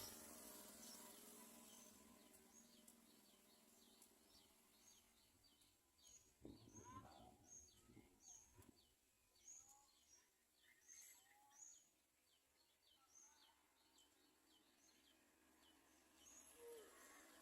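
Faint, rhythmic high chirps from a small bird, about two a second, repeated steadily, with a few lower, rising calls around the middle.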